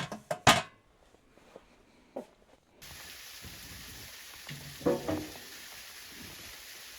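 A few sharp knocks and clacks of cookware, then a steady sizzling hiss of food frying in a pan starts suddenly about three seconds in, with a couple of clunks from a pan or utensil.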